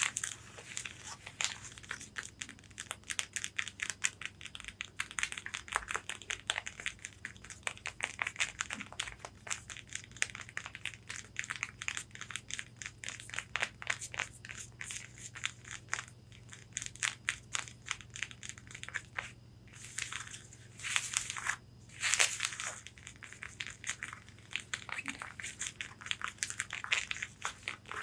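Long fingernails tapping rapidly on a corset's bodice in dense runs of small clicks, with a few longer scratching strokes across the fabric about twenty seconds in.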